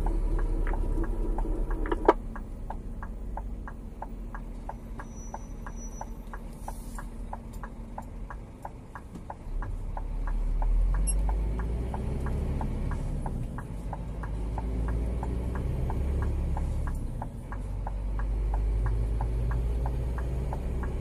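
Inside a Scania G410 truck's cab: a steady ticking about three times a second, typical of the turn-signal relay, over the truck engine's low running. The engine grows louder about ten seconds in and again near the end as the truck pulls. There is a sharp click about two seconds in.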